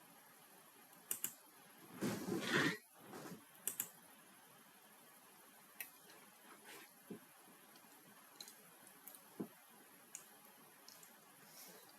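Computer mouse and keyboard clicks, some in quick double-click pairs, others as light single taps. A short rustling noise about two seconds in is the loudest sound.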